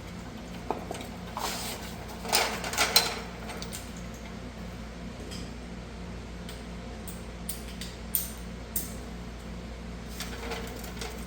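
A few light metallic clinks and knocks of tools and brake parts being handled, grouped about two to three seconds in and again near the end, over a steady low hum.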